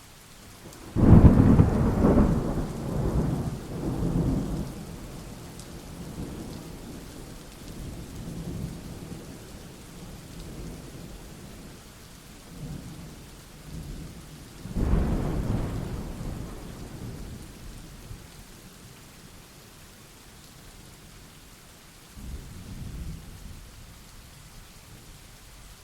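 Thunderstorm: steady rain with three claps of thunder, a loud crack about a second in rolling off into a long rumble, a second clap about fifteen seconds in, and a softer rumble near the end.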